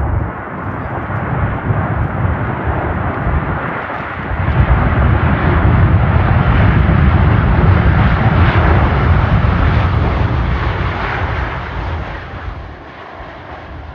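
Jet airliner engine noise that swells to a loud peak and fades near the end as the plane passes, with gusty wind buffeting the microphone.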